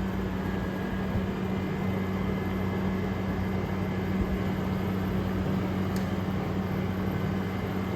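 2023 General Electric 5,000 BTU window air conditioner running in cooling mode with its compressor on: a steady low hum under the even rush of the fan's airflow.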